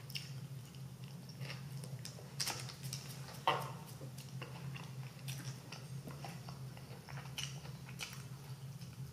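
A person chewing a mouthful of burger close to the microphone, with scattered soft wet smacks and clicks. A low steady hum sits underneath.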